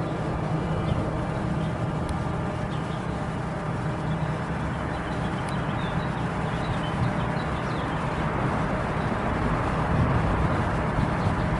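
Steady vehicle rumble with a low hum, growing a little louder near the end, and a few faint bird chirps.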